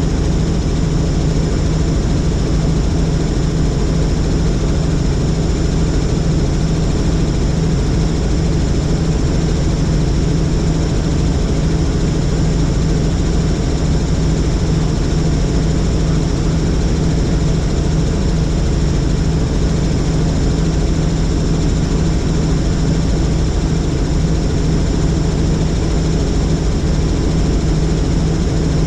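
Helicopter in steady flight: the constant drone of its engine and rotor, a strong low hum with a faint high whine above it, unchanging throughout.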